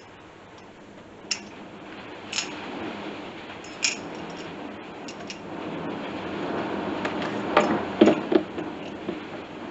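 A few scattered light clicks and taps over a steady hiss that slowly swells and then fades, with a small cluster of knocks near the end.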